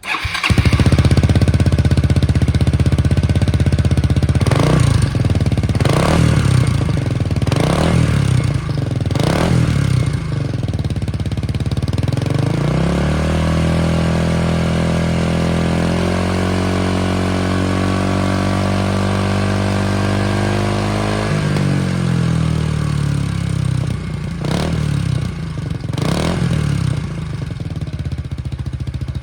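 Yamaha Majesty S scooter's 155 cc single-cylinder four-stroke engine running through an RPM stainless full exhaust system with a double-punching silencer. It idles and is blipped in four short revs. It then climbs to a higher engine speed, holds it for about eight seconds with a step up partway through, and drops back to idle. Two more quick revs come near the end.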